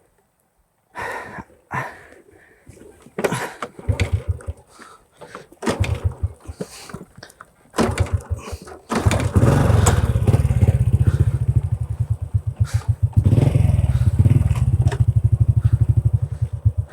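Small single-cylinder four-stroke engine of a Honda Dream motorbike, with scattered knocks and clatter. The engine runs in short bursts from about four seconds in, then runs steadily under load from about nine seconds in as the loaded bike is worked over a rough, broken track.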